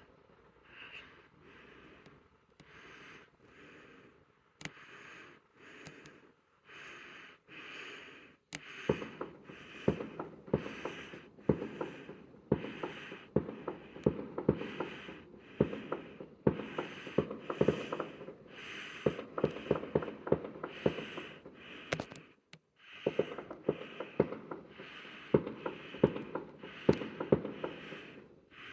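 Fireworks crackling and popping in rapid clusters about a second apart. They are sparse and faint for the first several seconds, then turn dense and louder about eight seconds in.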